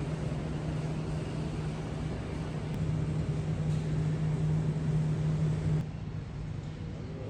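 A vehicle's steady running hum with a constant low drone; it drops off suddenly a little under six seconds in.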